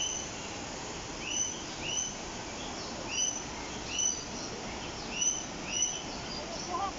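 Aviary bird chirping: short chirps that rise and fall, repeated over and over, often in quick pairs, over a steady background hiss.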